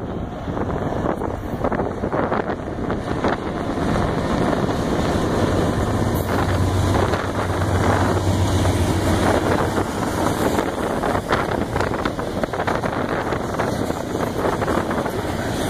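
Norfolk Southern diesel freight locomotives passing close by under power, their low engine drone loudest about halfway through, then the steady rumble of rail-train cars loaded with long welded rail rolling past on the track.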